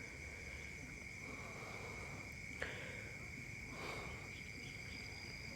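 Faint, steady, high-pitched chirring of crickets in the background.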